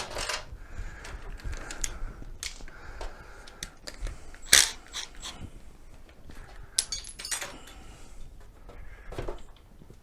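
Hand work on a mobility scooter's front bumper: scattered clicks, knocks and small metallic clinks of bolts and parts being handled, with one sharp knock about four and a half seconds in and a quick run of bright metallic ticks about seven seconds in.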